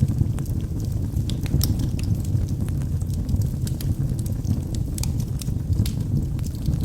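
Wood fire burning in a fireplace: a steady low rumble of the flames with scattered sharp crackles and pops from the burning logs, several each second.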